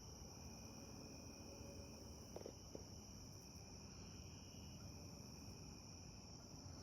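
Faint, steady, high-pitched chorus of night insects on a late-summer evening, with a brief soft sound about two and a half seconds in.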